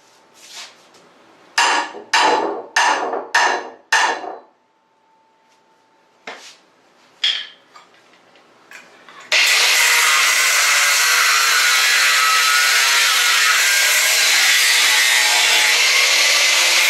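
Hammer blows on the steel leg of a welding table, knocking it loose: five quick strikes about a second and a half in, then two more a few seconds later. About nine seconds in, a loud power tool starts suddenly and runs steadily.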